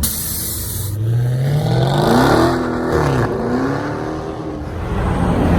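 A car engine revved hard, its pitch climbing for about a second and a half before it drops back, then a second, smaller rev soon after. A brief hiss comes in the first second.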